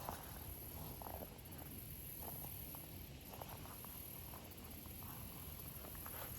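Faint footsteps and scattered soft rustles, typical of walking in plastic over-boot waders, over a steady high-pitched hiss.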